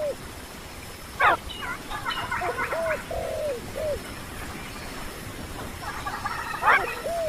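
Bird calls in a repeating phrase: a sharp note sweeping steeply in pitch, followed by a run of short arched notes with a busy chatter above them. The phrase comes about a second in and again near the end.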